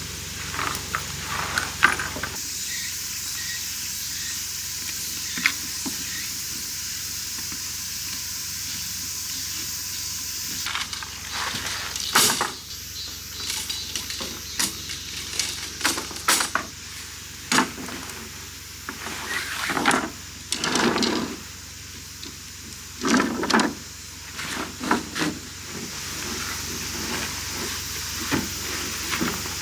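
Food sizzling in a hot pan. Through the middle stretch there are repeated clinks and knocks of utensils and cookware, and the steady sizzle returns near the end.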